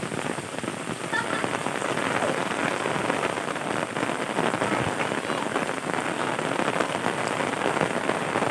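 Heavy rain pouring steadily, a dense patter of drops on surfaces.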